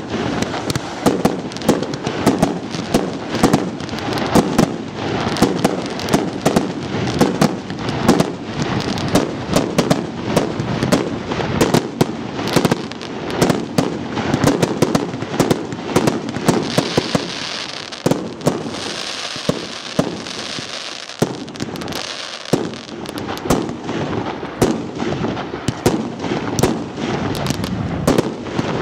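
Closing fireworks barrage: a rapid, unbroken run of launch shots and aerial shell bursts from batteries and ground devices. About two-thirds of the way through, a brighter hissing stretch rises over the bangs.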